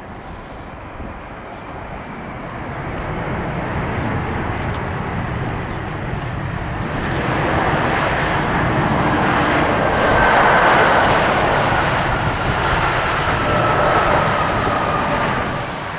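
Boeing 787-8 jet engines on landing approach, growing louder as the airliner passes and then easing off, with a fan whine that falls in pitch as it goes by. Wind rumbles on the microphone underneath.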